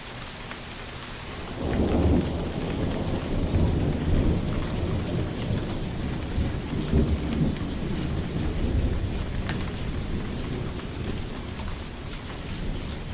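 Steady rain falling, with a long low roll of thunder that swells in about a second and a half in and rumbles on in uneven surges, slowly fading near the end.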